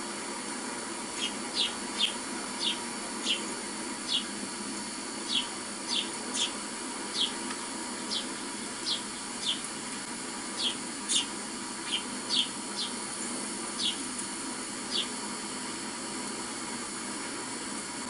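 A small bird chirping: about twenty short, high chirps at an uneven pace of one or two a second, stopping a few seconds before the end, over a steady hiss. The chirps come from a bird video playing on a television.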